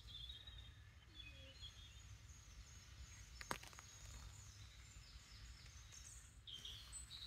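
Near silence with faint birdsong in the woods, in short scattered chirps, and one soft click about three and a half seconds in.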